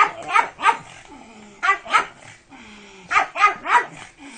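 Pug barking in short, sharp bursts: three quick barks, a pause, two more, then another three in quick succession.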